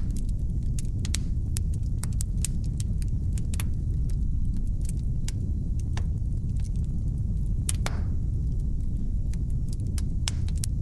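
Wood fire in a fireplace crackling: many sharp pops and snaps at irregular moments over a steady low rumble of burning, one stronger pop about eight seconds in.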